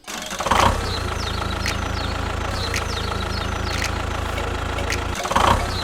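Engine idling with a steady low rumble that drops out briefly about five seconds in and then picks up again.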